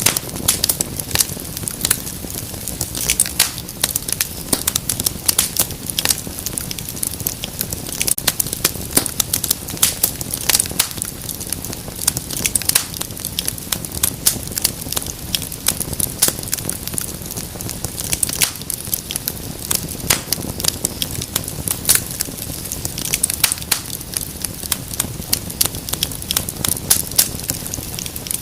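Fireplace fire crackling, with many quick irregular pops and snaps over a steady low rumble.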